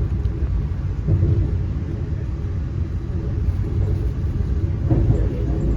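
Steady low rumble of a passenger train running, heard from inside the passenger car.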